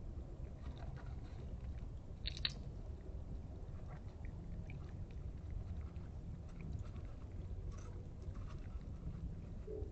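A small wild animal chewing and crunching food, with scattered small clicks and one sharper click about two seconds in, over a steady low hum.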